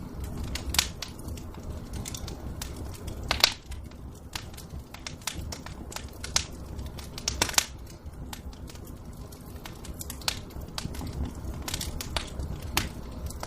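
Wood fire in a fireplace crackling, with irregular pops over a low steady rumble; a couple of louder pops stand out, about three and a half and seven and a half seconds in.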